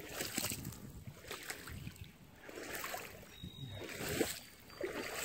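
Footsteps wading through shallow floodwater in rubber boots, a slosh with each step, repeating about once a second.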